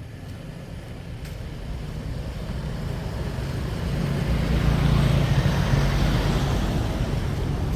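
A motor vehicle on the street passing by: its engine and tyre noise swell to a peak about five seconds in, then fade slightly.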